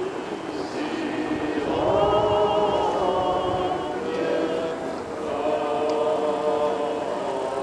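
A group of voices singing slow, long-held notes together, choir-style.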